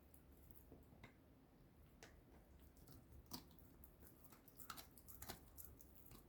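A dog gnawing on a dog chew: faint, irregular crunches and clicks, with a few sharper ones about halfway through.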